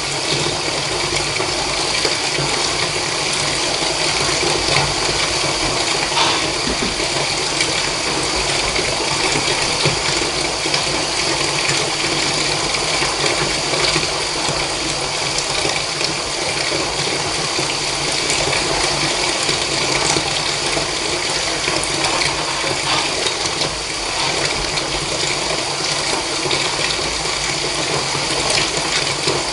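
Water pouring steadily and without a break into a bath, the even rush of a filling tub.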